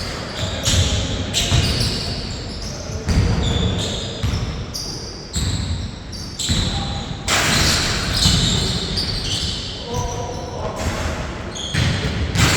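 Basketball bouncing on a court during a game, with repeated sharp thuds, short high-pitched sneaker squeaks and a few players' calls.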